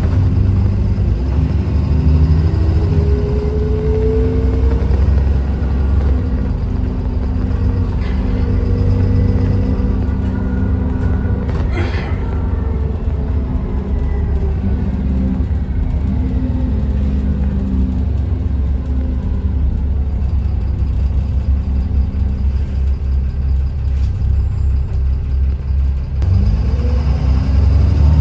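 Dennis Trident 2 double-decker bus's diesel engine, a recently fitted replacement, running under way with a heavy low rumble; its note rises and falls as it pulls through the gears and builds again near the end. A brief sharp knock or rattle about twelve seconds in.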